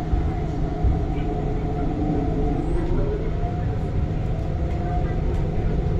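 Cabin sound of an MTR East Rail Line R-Train (Hyundai Rotem electric multiple unit) running along the line: a steady low rumble of wheels on track, with a few faint whining tones above it.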